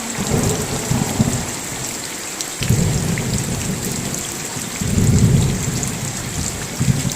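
Steady rain hissing and pattering with sharp drop ticks, under rolling thunder that swells and fades about four times, loudest a little past the middle.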